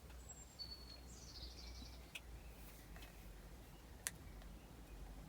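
Near silence, with faint bird chirps and a short run of chirping in the first second and a half, and two small sharp clicks about two and four seconds in.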